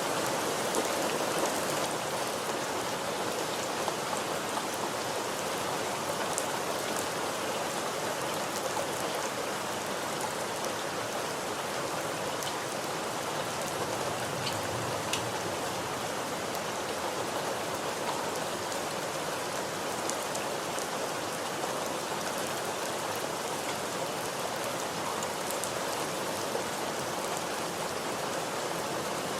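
Steady rain falling, an even hiss of drops on a surface with occasional single drops ticking above it.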